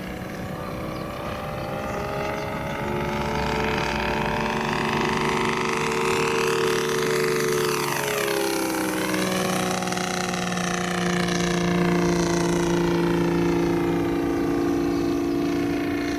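Radio-controlled model warplane in flight, its Saito three-cylinder four-stroke radial gasoline engine running steadily. About halfway through, the engine pitch drops sharply, then climbs back up.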